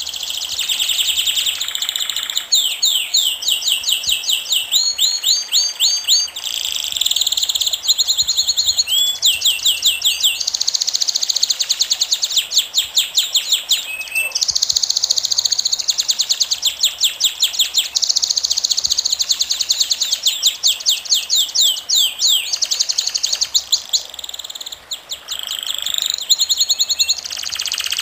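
Birds singing: rapid runs of high-pitched chirps and trills, repeating one after another with only brief breaks.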